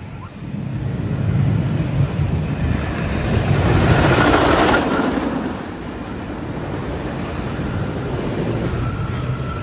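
Roller coaster train running past on its track, a rumbling rush that swells to its loudest about four to five seconds in and then fades back to a steady rumble.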